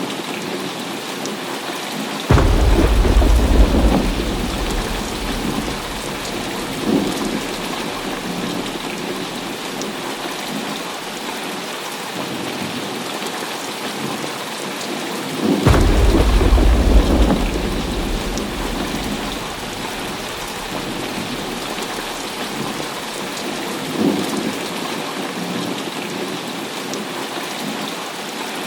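Heavy rain pouring steadily in a thunderstorm, with deep rolls of thunder. A rumble starts suddenly about two seconds in and another about halfway through, each dying away over several seconds.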